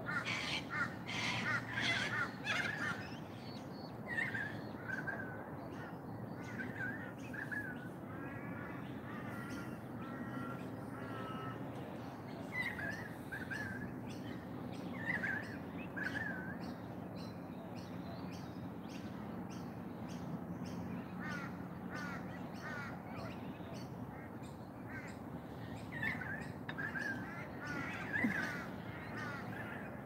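Several birds calling: a cluster of harsh calls in the first few seconds, then short whistled phrases repeated at intervals, over a steady low background rumble.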